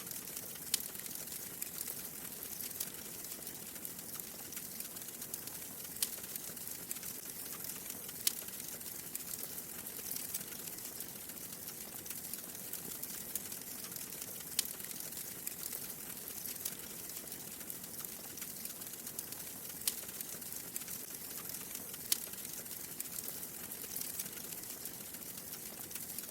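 Wood fire crackling in a fireplace: a steady soft hiss with frequent small crackles and a sharper pop every few seconds.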